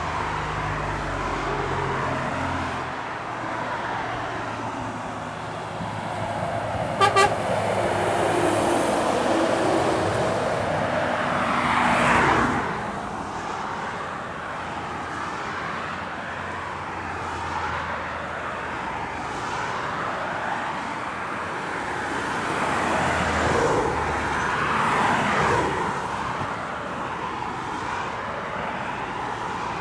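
Heavy trucks pulling up a long climb, engines running under load, with two short horn toots about seven seconds in. Vehicles go past with the noise rising and falling away, most clearly about twelve seconds in and again near twenty-five seconds.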